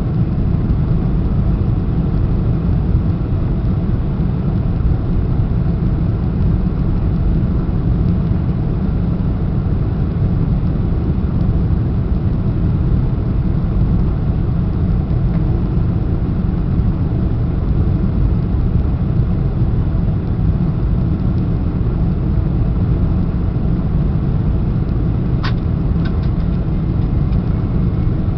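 Steady cabin roar of a Boeing 747-400 airliner in flight, the rush of airflow and engine noise heard from a passenger seat, with a brief click near the end.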